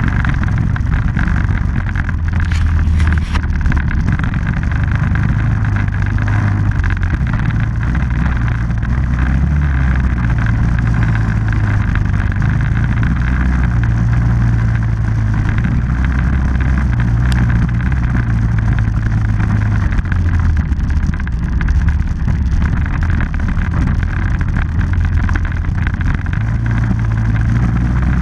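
Small off-road vehicle engine running continuously on a ride, its pitch stepping up and down every few seconds as the throttle changes.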